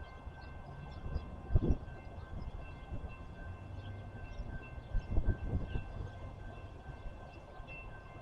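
Train passing: a steady low rumble, with heavier thumps about a second and a half in and again about five seconds in.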